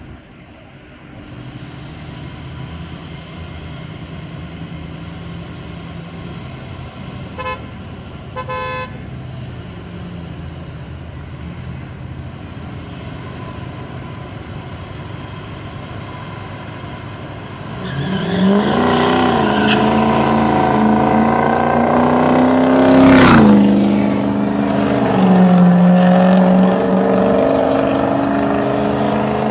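Vehicle engines idling, with two short car-horn toots. A little past halfway the engines go to full throttle in a street-race launch: a loud engine note that climbs in pitch and drops back at each gear change, with a sharp crack at one shift.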